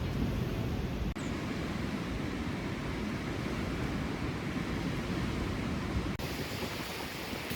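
Strong wind blowing over the microphone: a steady low rumble with a rushing hiss on top. It breaks off sharply twice, about a second in and again near the end.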